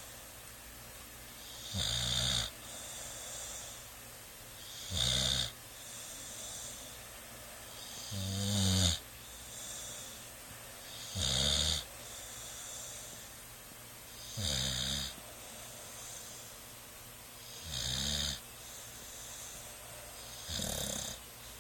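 Eight-month-old bulldog snoring in deep sleep: a snore about every three seconds, seven in all, evenly paced.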